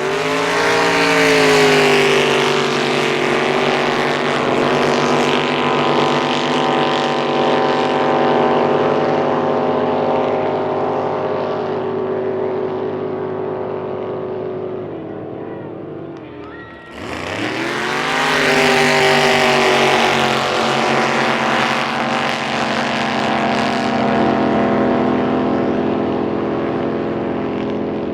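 Drag boat engine launching with a sharp rising rev, then running at a steady high pitch down the course and slowly fading. A second run does the same about seventeen seconds in.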